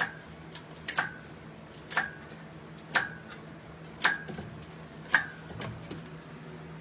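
Engine hoist's jack being pumped: six sharp metallic clicks with a short ring, about one a second, as the handle is worked to lift the engine.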